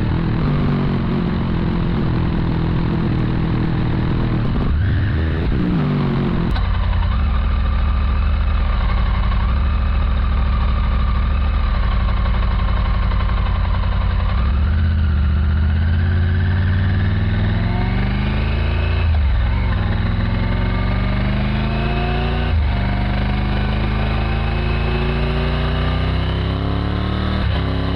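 Triumph Tiger 900's inline three-cylinder engine under way: it holds a steady pitch for several seconds, then about halfway through climbs through the revs with three upshifts, each dropping the pitch before it rises again.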